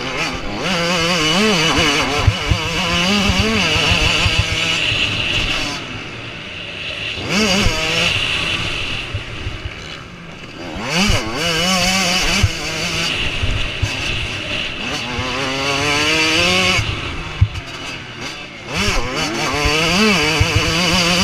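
Motocross motorcycles racing past, their engines revving hard and rising and falling in pitch as the riders work the throttle and change gear, with brief lulls between passes.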